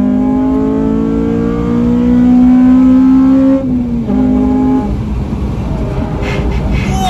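Honda Civic Type R (FN2) engine pulling under acceleration, its note rising steadily for about three and a half seconds. The pitch then drops suddenly, drops again about a second later, and runs lower and rougher to the end.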